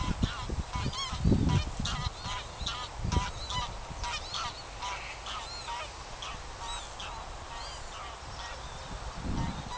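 A flock of birds calling, many short pitched calls overlapping throughout, with a few low bumps around the first few seconds and near the end.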